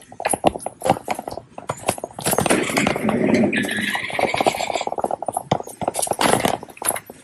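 Shopping cart being pushed along, its wheels and frame rattling and clicking in a quick uneven rhythm, with a louder rushing noise for a few seconds from about two seconds in.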